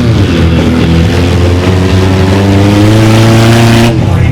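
Mini monster truck engine revving, its pitch climbing steadily for about three seconds before dropping away near the end, over a steady low drone.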